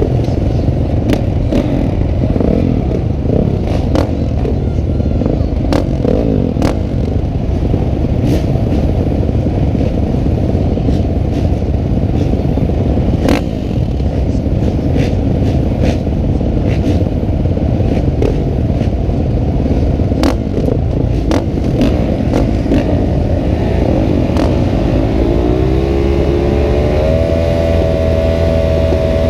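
Motocross motorcycle engines running under a dense low rumble, with scattered sharp clicks. From about 24 seconds in, one engine's pitch rises and then holds steady to the end.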